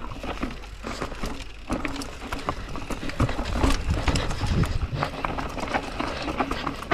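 Mountain bike rolling fast over a rough dirt trail: a steady, irregular rattle of clicks and knocks from the bike over roots and rocks, with a low rumble of wind that swells midway.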